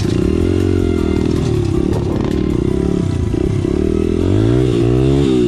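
Dirt bike engine running at a steady pitch, then revving up and down in pitch near the end.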